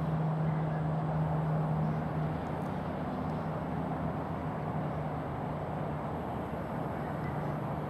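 Steady jet engine noise from a Southwest Airlines Boeing 737 on its takeoff, with a low hum that weakens about two seconds in.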